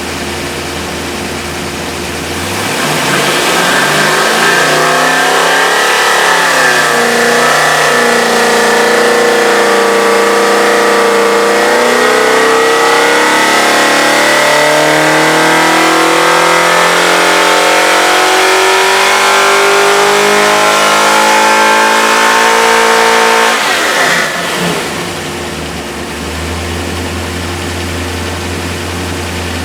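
Remanufactured 5.3-liter LS V8 running on an engine dyno. It idles, revs up about two and a half seconds in, and climbs slowly and steadily in pitch for some fifteen seconds in a dyno pull. Then the throttle closes suddenly and it falls back to a steady idle for the last few seconds.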